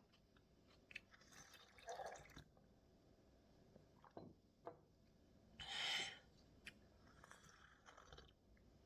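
Faint sounds of a person eating and drinking: a few short wet sips or slurps of liquid, the loudest about six seconds in, with small scattered clicks.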